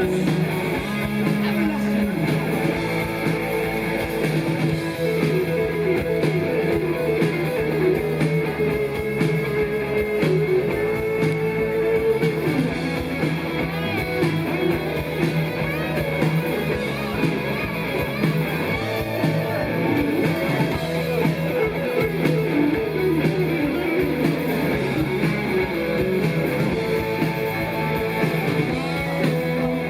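Live rock band playing an instrumental passage, with a wavering electric guitar lead melody over the rest of the band.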